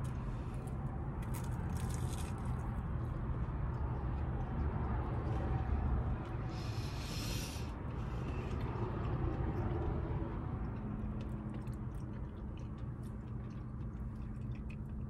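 Chewing on crispy battered fried fish, with small wet mouth clicks. There is a steady low hum underneath, and a brief crisp noise about seven seconds in.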